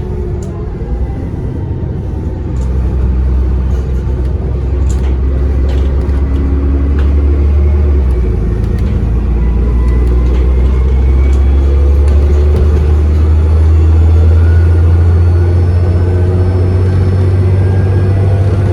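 Bus diesel engine under way, heard from inside the saloon, pulling harder and louder as the bus accelerates, with a faint rising turbo whistle above the engine note and light rattles of the body.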